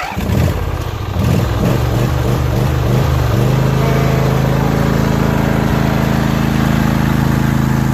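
Craftsman DLT3000 lawn tractor engine running after a repair that freed its stuck carburetor float. It runs unevenly for the first three seconds or so, then settles into a steady run.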